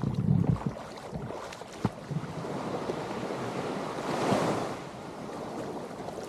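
Sea waves washing in on the shore, one swelling and breaking about four seconds in, with wind buffeting the microphone at the start.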